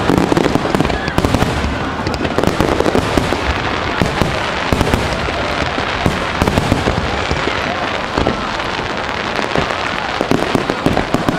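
Aerial fireworks going off in rapid succession: a dense, unbroken barrage of bangs and crackling.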